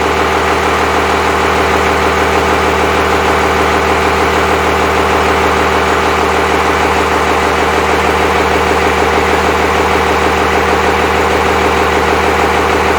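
Cummins 5.9L 12-valve inline-six diesel idling steadily with a fast, even diesel clatter, on its first run after a complete rebuild.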